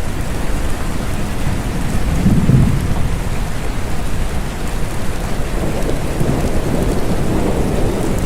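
Steady rain falling, with low rumbles of distant thunder swelling about two seconds in and again near the end.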